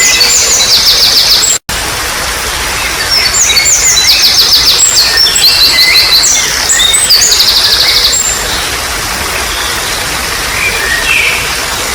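Songbirds singing in fast, trilled phrases over the steady hiss of trickling water. The song is densest from about three to eight seconds in, with a few softer calls near the end. The whole sound cuts out for an instant about one and a half seconds in.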